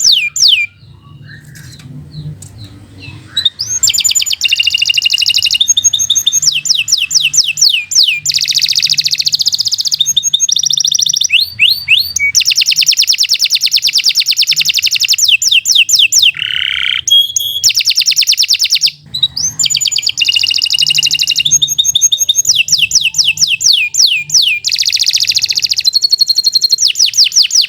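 Domestic canary singing a long song of rapid rolling trills and quick repeated chirps. It falls silent for a few seconds near the start and breaks off briefly about two-thirds of the way through.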